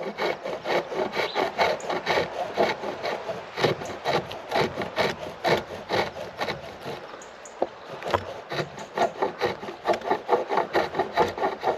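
A turning tool cutting a chestnut spindle on a foot-powered pole lathe. It makes a fast, rhythmic run of short scraping strokes as the work spins back and forth and curls of shaving come off. The strokes ease off briefly around seven seconds in, then pick up again.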